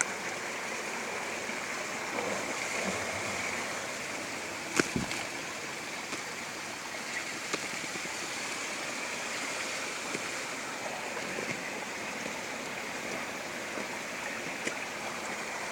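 Spring water running steadily in a stream, a continuous even rush. A single sharp knock about five seconds in.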